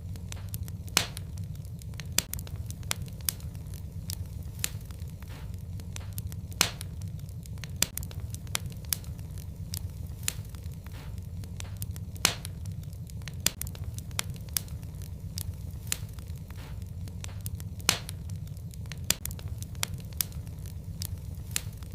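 Wood fire crackling in a fireplace, with many irregular sharp pops over a steady low rumble. A few pops stand out louder, roughly every five or six seconds.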